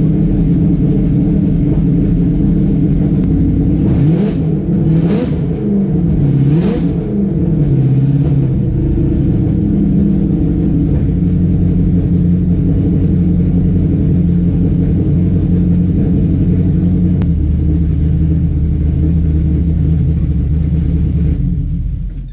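Supercharged, cammed Ford Coyote 5.0 V8 running on one of its first starts, blipped a few times between about four and eight seconds in, then idling steadily. It runs rough, which the owner takes for a misfire.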